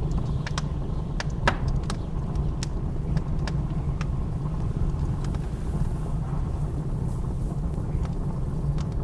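Wood fire crackling in a fireplace, with scattered sharp pops, the loudest about one and a half seconds in, over a steady low rumble of blizzard wind.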